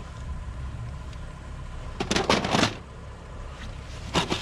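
Plastic VHS cassettes clattering against each other as they are sorted by hand, in two short bursts, one about two seconds in and one near the end, over a low steady hum.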